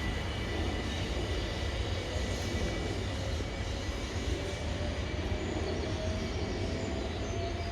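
Class 377 Electrostar electric train running with a steady low rumble; from about five seconds in, a faint whine slowly rises in pitch.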